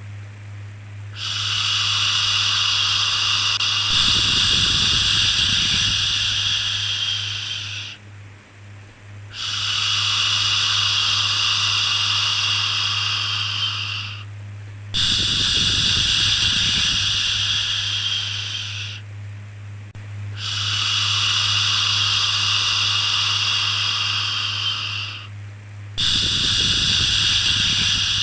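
A soothing 'shhh' shushing sound, repeated five times. Each shush is held for four to six seconds, with a short pause between, over a steady low hum.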